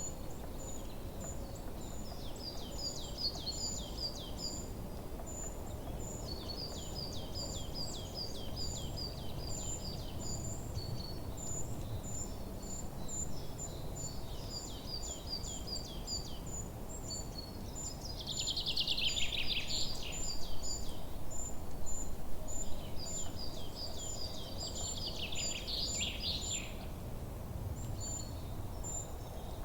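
Forest birdsong: small birds repeating rapid runs of short, high chirps, with two louder, denser phrases about two-thirds of the way through. Underneath is a steady low background rumble.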